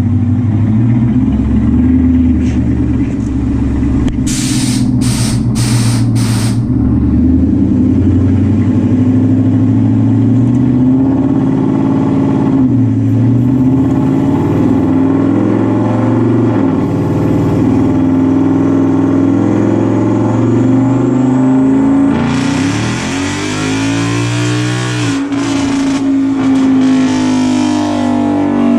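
2018 Ford Mustang's 5.0 Coyote V8 running on a chassis dyno for a pull on a 125-shot of nitrous. The engine note climbs slowly, then sweeps up sharply near the end with a loud rushing roar. A few sharp snaps come about four to six seconds in.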